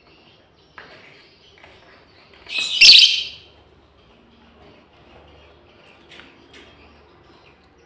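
Lovebird calling: one loud, shrill screech about three seconds in, with a few fainter short chirps before and after it.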